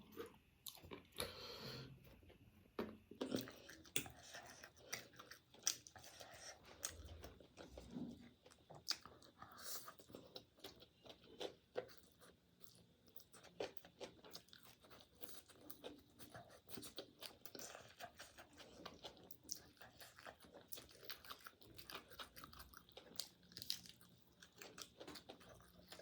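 A person chewing and biting food close to the microphone, faint, with many short, irregular mouth clicks.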